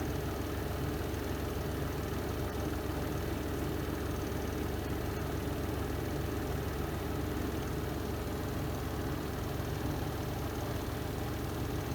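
Spin drum of a Renova semi-automatic twin-tub washing machine spinning at speed: a steady motor hum with a fast, even low rumble that does not change.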